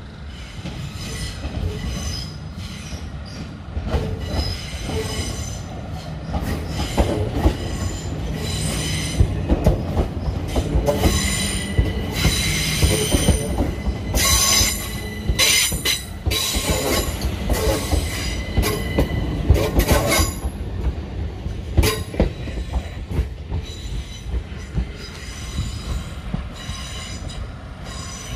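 Southern Class 377 electric multiple unit running slowly over curved track into a terminus, its wheels squealing in shifting high-pitched tones, with sharp clicks as it crosses rail joints and points. The squeal is loudest around the middle, as the train passes closest.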